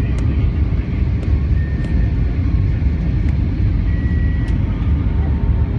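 Airbus A320 cabin noise, a steady low rumble of engines and airflow heard inside the passenger cabin.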